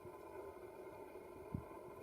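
Faint steady background hum, with a single soft low thump about one and a half seconds in.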